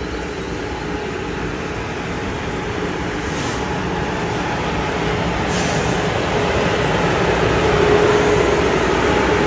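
Amtrak Acela electric trainset rolling slowly past, coaches then the power car: a steady rumble of wheels on rail. A steady hum from the power car grows louder toward the end as it draws alongside.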